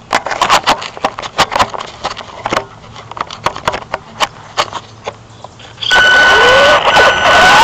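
A run of sharp clicks and knocks for about six seconds, then the Traxxas Slash RC truck's electric motor starts up suddenly. It runs loud with a steady high whine, and rising tones near the end as it speeds up.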